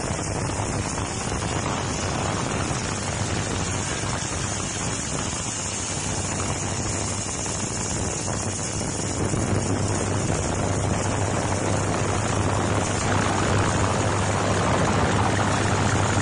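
Industrial ultrasonic washing machine running: a steady mechanical noise with a low hum that grows louder about ten seconds in.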